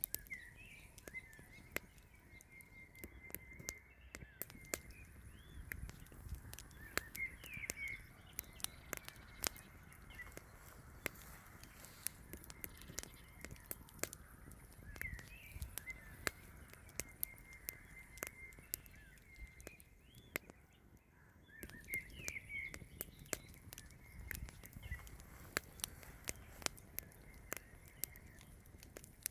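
A songbird chirping in short phrases every several seconds, over many scattered sharp, irregular clicks and crackles.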